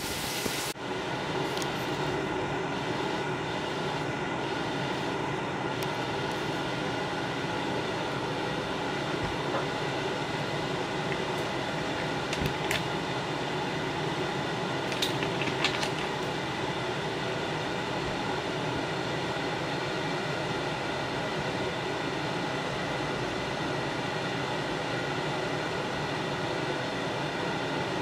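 Fish frying in hot grease: a steady sizzle under a constant hum, with a few sharp pops around the middle.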